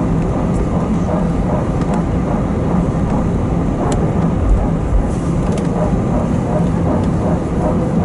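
Airbus A320 cabin noise during taxi: a steady low rumble of the engines and rolling gear with a constant hum, and a few faint clicks.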